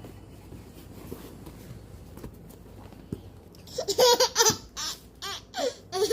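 A baby laughing in short, high-pitched bursts that start about four seconds in, after a quieter stretch with a few faint knocks.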